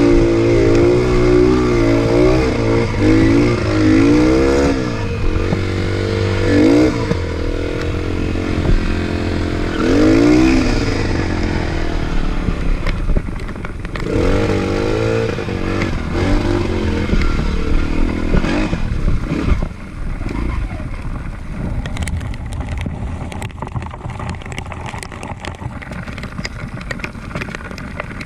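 Trail motorcycle engine revving up and down in repeated bursts. Past the middle the revving dies down to lower running, with scattered clicks and knocks.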